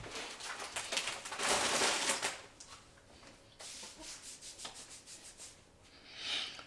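Block of tasty cheese rasped against a metal grater: rough scraping strokes, loudest in the first two seconds, then fainter, with one more short rasp near the end.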